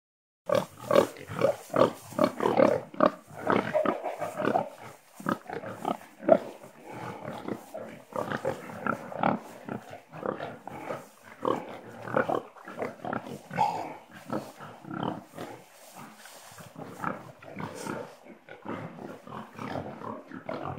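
Black pigs grunting, many short grunts overlapping in an irregular stream, busiest in the first few seconds.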